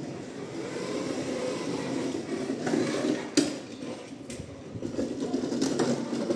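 New motor oil glugging from its bottle through a funnel into a small motorcycle engine's filler hole, with two sharp knocks in the middle.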